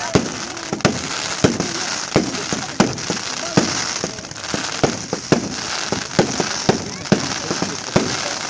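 Fireworks display: shells bursting in an irregular series of sharp bangs, about two a second, over a continuous crackling hiss.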